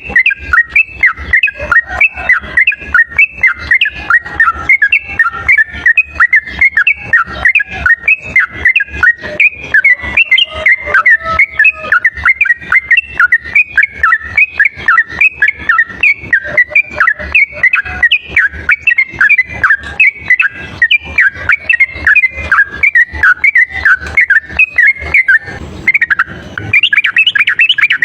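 Yellow-vented bulbul (trucuk) singing in a rapid, unbroken chatter of short, clear whistled notes, several a second. Near the end the song breaks off briefly with a dull thump, then resumes slightly higher.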